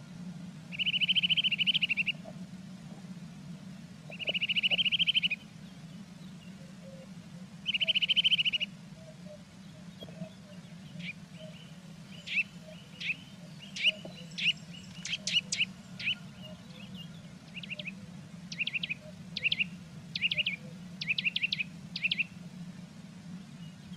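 Blue tits calling: three buzzy, rapid trills of about a second each, then a run of short, sharp chirps, some in quick clusters. A steady low hum runs underneath.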